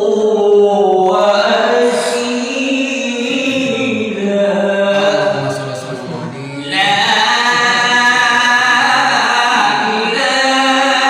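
A person singing a slow, drawn-out chant-like melody with long held, gliding notes. The voice drops back briefly past the middle, then comes in fuller and louder for a new phrase.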